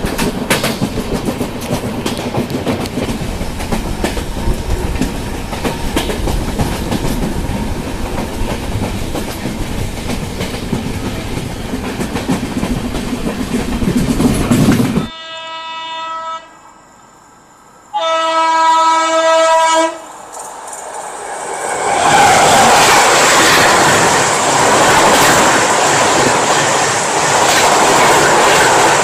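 A passenger train running at speed, heard from an LHB coach doorway: a steady rush of wheel and rail noise with the clickety-clack of rail joints. Midway the sound cuts abruptly and a locomotive horn sounds twice. After that comes a louder, even rush as another train passes close alongside.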